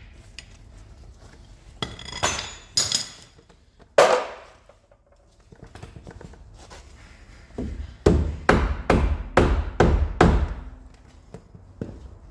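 Hammer blows on metal car suspension parts: a few knocks, one loud ringing strike about four seconds in, then a quick run of about eight blows starting about eight seconds in.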